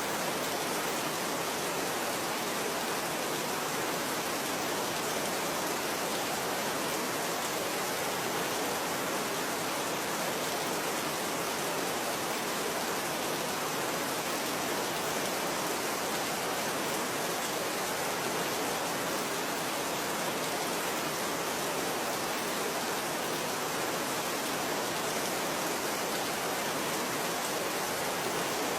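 Steady rain falling, a continuous even hiss with no individual drops or thunder standing out.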